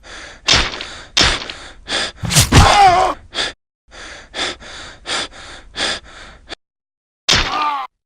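A person gasping and panting in a rapid series of short, harsh breaths, with a voiced cry mixed in about two and a half seconds in. The breaths stop, then one more gasp comes near the end.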